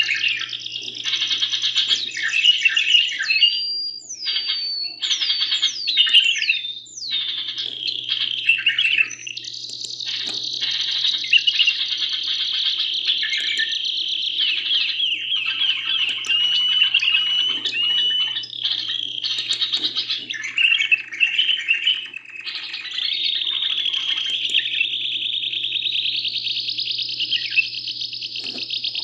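Canary and bulbul song: continuous rapid rolling trills and chatter with a run of quick rising whistled glides early on, over a faint steady low hum.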